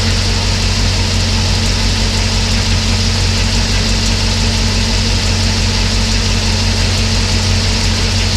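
Mercedes-Benz W124 500E's 5.0-litre V8 idling steadily when warm: a constant low hum with a faint steady tone above it.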